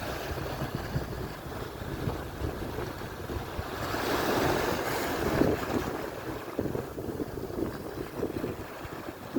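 Atlantic surf breaking and washing ashore, a wave swelling louder about four seconds in and then ebbing. Wind rumbles on the microphone throughout.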